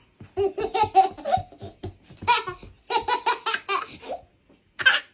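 A person laughing hard in several bursts of rapid, pitched ha-ha pulses with short breaks between them.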